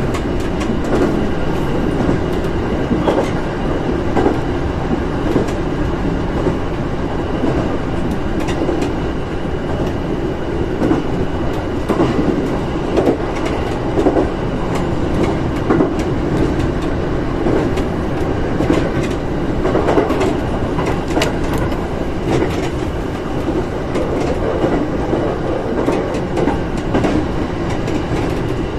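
Shinano Railway SR1 series electric train running along the track, heard from inside the front car: steady running noise of wheels on rail with scattered clicks.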